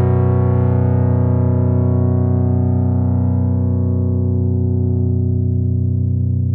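Sequential analog polysynth holding one low note. Its bright upper harmonics slowly fade away while the low end sustains at an even level.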